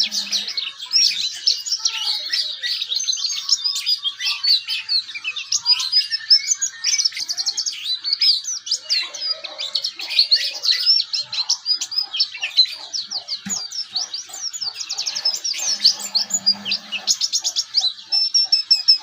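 Pleci (white-eye) of the Bustomi type singing: a long, fast, unbroken twittering warble of high chirps and quick trills. This rapid chatter is the 'ngeriwik' style of song.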